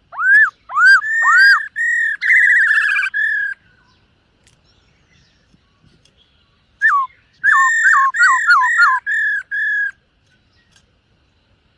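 Black-throated laughingthrush (khướu bạc má) singing two loud phrases of clear, swooping whistled notes, the second starting about three seconds after the first ends.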